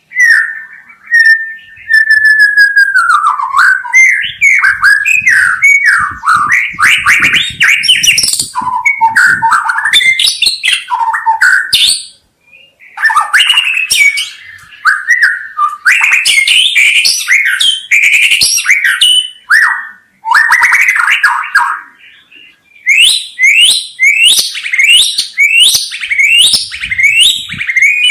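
White-rumped shama (murai batu) singing a long, varied song of clear whistles, fast trills and sliding notes, with two short pauses. Near the end it repeats a quick series of rising whistled sweeps.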